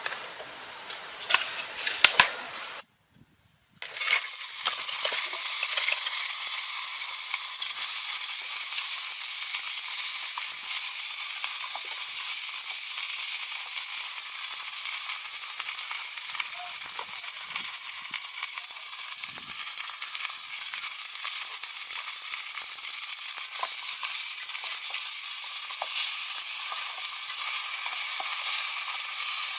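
Food frying in hot oil in a pan: a steady sizzle with scattered small pops, starting after a brief break about four seconds in.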